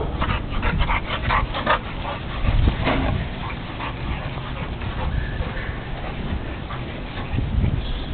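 Puppies yipping and whimpering: a quick run of short, high-pitched yips in the first two seconds and one more about three seconds in, with a low rumble underneath.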